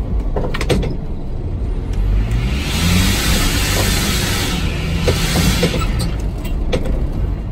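Car engine running under changing load while driving over sand dunes, its pitch rising and falling, with a rush of noise that swells and fades and a few sharp knocks.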